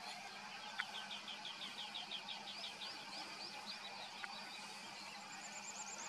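A small bird singing a quick trill of repeated chirps, about six or seven a second, that climbs in pitch over a few seconds. A higher, faster trill starts near the end, over a steady faint outdoor hiss.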